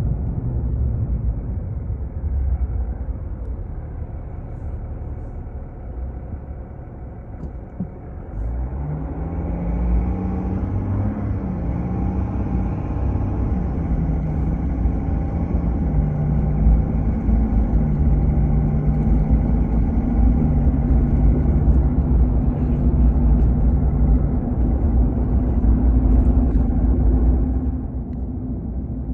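Car being driven: steady low road and engine rumble. About a third of the way in the engine note rises as the car speeds up, then settles into a steady hum.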